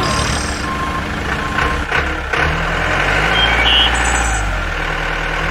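Miniature DIY tractor running with a steady engine-like hum, the note growing heavier after a knock about two seconds in. Three short reversing-style beeps sound in the first two seconds.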